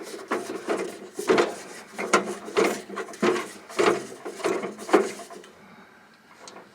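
A quick run of a dozen or so knocks and clunks as gear is handled and set in place around a Mr. Buddy propane heater, dying down near the end.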